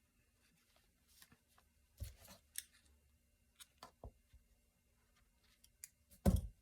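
Scattered light clicks and rustles of hands working string on a journal, and scissors snipping off the string's leftover tail, with one louder knock near the end.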